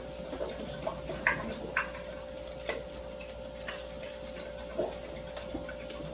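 A dog's claws clicking irregularly on a hard floor as it walks, over a steady electrical hum.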